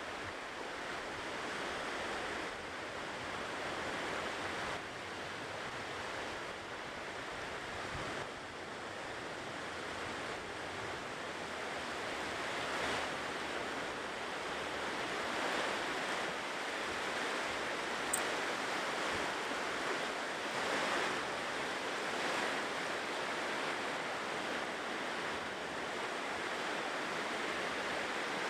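Ocean waves breaking and washing onto a shore: a steady rush of surf that swells and eases slowly every few seconds.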